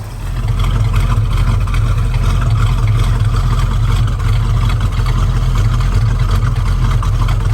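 1971 Dodge Charger R/T's 440 big-block V8 idling at the exhaust: a steady, smooth big-block chug, growing louder within the first second and then holding even.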